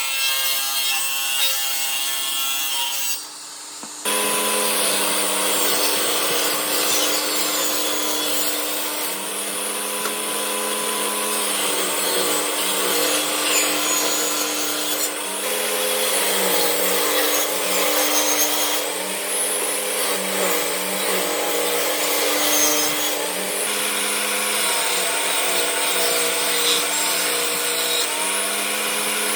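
A power tool working wood, with a steady motor whine and rasping cutting noise. It drops away briefly about three seconds in, then runs on with a steady hum.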